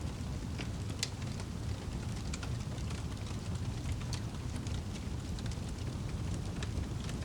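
Fire crackling in a fireplace: scattered sharp pops and snaps, one louder about a second in, over a low steady rumble of the flames.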